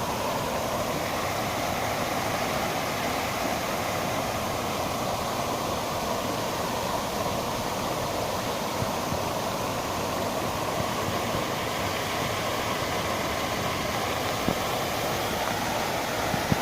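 Park fountain's falling water, a steady even roar of splashing with no change through the stretch.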